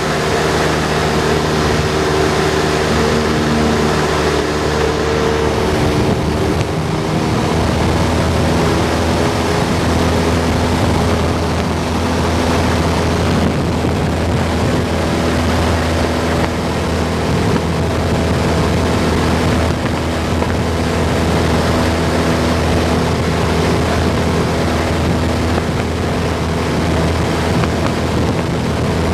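Cessna 172's piston engine and propeller droning steadily in flight, heard from inside the cabin. The engine note changes about six seconds in, then holds steady.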